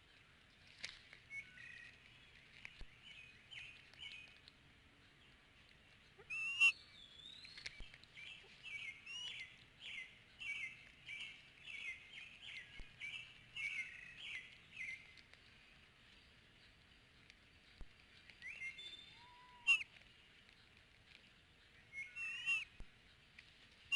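Birds calling: a run of sharp, high chirping notes about two a second for several seconds, with a few scattered calls before and after.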